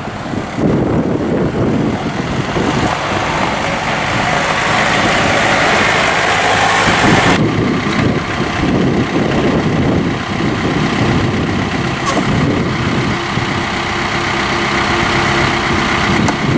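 John Deere 4052R tractor's four-cylinder Yanmar turbo diesel running steadily, with an abrupt change in the sound about seven seconds in.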